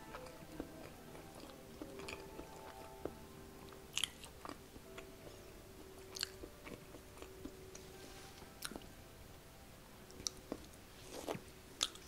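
Close-miked chewing of a mouthful of aligot (stretchy cheese mashed potato): soft wet mouth sounds with a few sharp clicks, over quiet background music.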